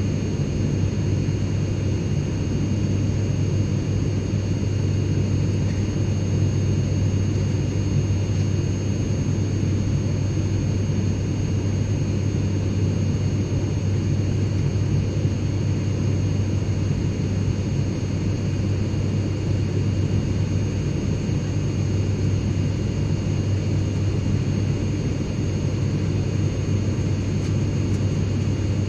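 Steady airplane cabin noise: a constant low drone of engines and airflow, with faint high steady tones above it and no changes.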